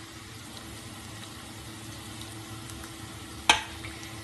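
Onions with ginger and garlic frying in oil in a pot, a steady sizzle while a wooden spoon stirs them. One sharp knock comes near the end.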